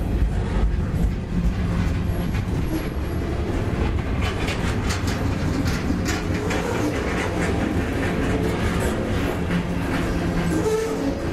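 Freight train cars rolling past: a steady rumble of steel wheels on rail, with irregular clicks and clacks as the wheels cross rail joints.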